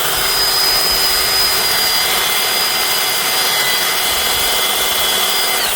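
Electric Eel drain-cleaning machine running with its cable spinning about 30 feet into a clogged sewer line: a loud, steady motor whine that cuts off abruptly near the end.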